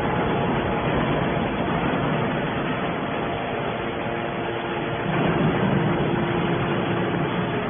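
Hydraulic scrap metal baler running: a steady machine noise with a faint hum, swelling slightly about five seconds in.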